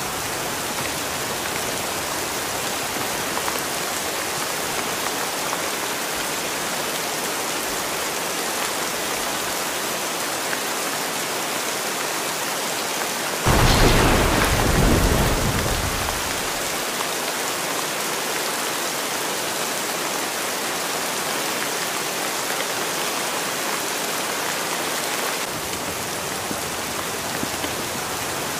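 Steady rain falling, with one clap of thunder about halfway through that breaks suddenly and rumbles away over two or three seconds.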